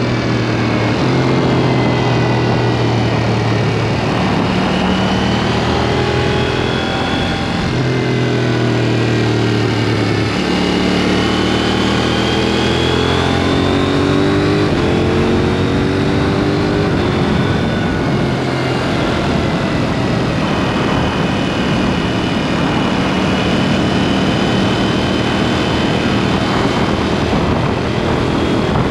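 KTM 790 Duke's parallel-twin engine breathing through an aftermarket SpeedPro Cobra SPX exhaust while riding, the revs rising and falling through gear changes, over steady wind and road noise.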